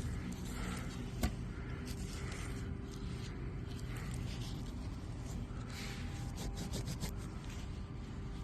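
Fingers rubbing soil off a freshly dug old metal button in a series of soft scrubbing strokes. There is a sharp click about a second in and a quick run of small ticks near the end.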